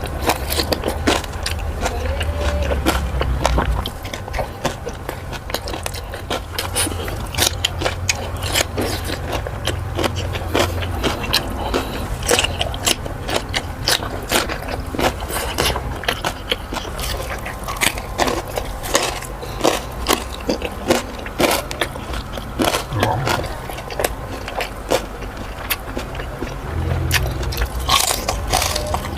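Close-miked crunching of crunchy food: many sharp, irregular bites and chews, crackling over and over.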